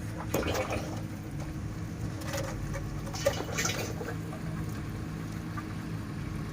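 Fresh engine oil being poured into a JCB engine's oil filler, over a steady low hum, with a few short knocks.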